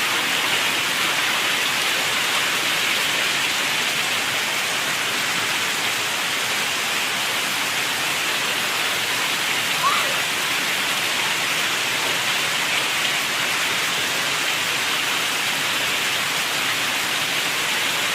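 Steady rain falling, an even hiss of drops. A brief high rising call cuts through it about ten seconds in.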